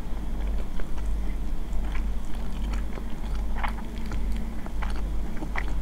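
Close-miked chewing of ramen noodles, with many small wet mouth clicks coming more thickly in the second half, over a steady low hum.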